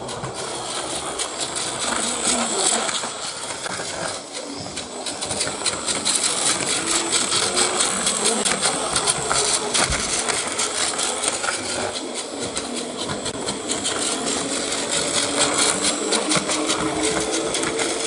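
Battery-powered Plarail toy train running on plastic track: its small electric motor and gears whir steadily, with a rapid clicking of the wheels and track.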